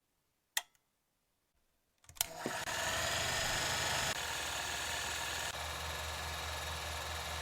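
A click, then about two seconds in a steady machine whir starts, with a low pulsing hum under it, like a small motor running.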